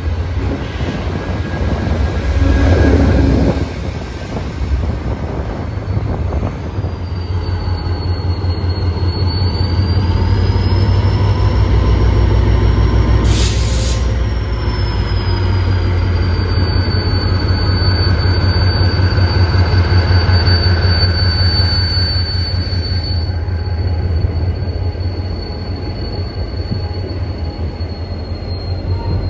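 Herzog ballast work train rolling close beneath, its cars giving a heavy low rumble. A high, wavering wheel squeal starts about a quarter of the way in and carries on to the end, with a short hiss about halfway through. A passing Amtrak train's cars are also heard at the start.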